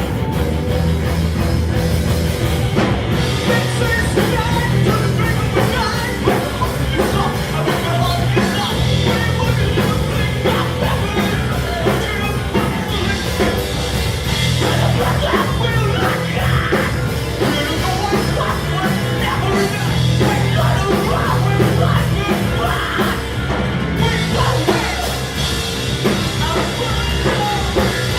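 Post-hardcore rock band playing live and loud: distorted electric guitars, bass and drum kit.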